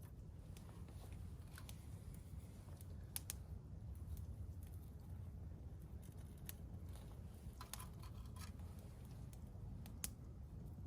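Campfire crackling: scattered sharp pops and snaps at irregular intervals over a faint low rumble.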